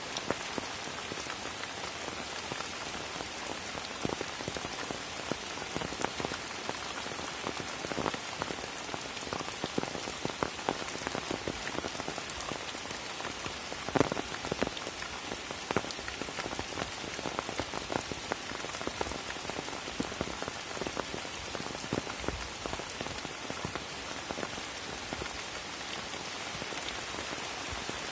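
Steady rain falling on a pond and the surrounding foliage: an even hiss thick with close drop ticks, one drop louder than the rest about halfway through.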